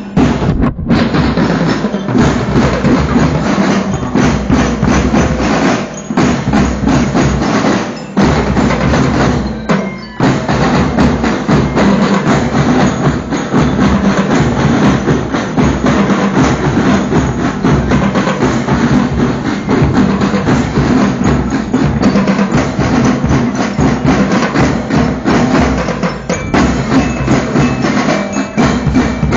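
Marching drum band rehearsing: drums and other percussion playing a continuous fast rhythm, with a few brief breaks in the first third.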